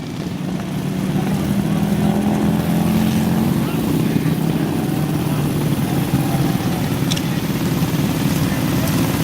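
Minibike engines running at high revs in a loud, steady drone, its pitch held for the first few seconds before it blurs into a continuous rumble.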